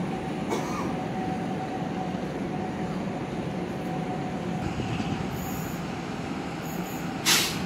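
Blue-and-white PKP Intercity electric multiple unit running past along the platform: a steady rumble of wheels on rail with a thin, steady high whine. A short, loud hiss cuts in near the end.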